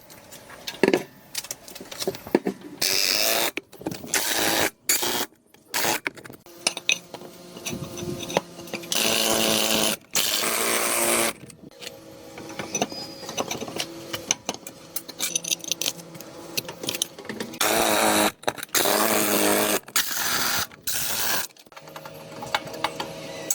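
A power tool run in repeated short bursts of about one to two seconds each, with clicks and scraping of tool work between the bursts.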